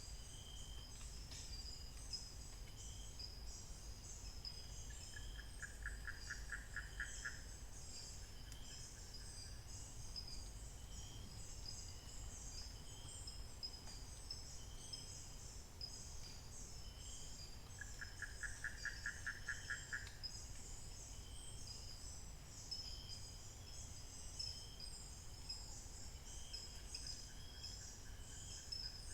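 Dawn chorus in African montane forest: a continuous high shrill insect drone, with a short call repeating about once a second. Twice, about five seconds and eighteen seconds in, a rapid pulsed trill of about five pulses a second lasts some two seconds.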